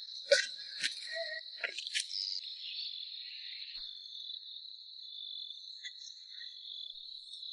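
Insects trilling steadily in a continuous high-pitched drone, with a few short clicks in the first two seconds.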